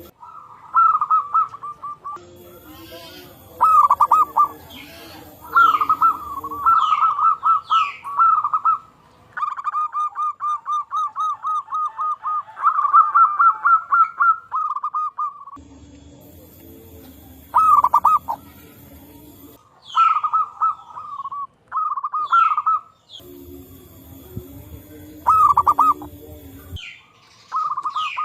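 Zebra doves (perkutut) cooing, several phrases of rapid staccato coos answering one another, including a long run of evenly spaced notes at about four a second. Short, high, falling chirps from other birds come in between.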